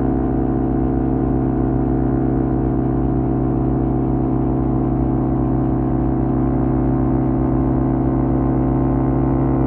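Kawasaki Z250's parallel-twin engine through a SeaPro aftermarket muffler, running at steady revs while cruising, the pitch holding even.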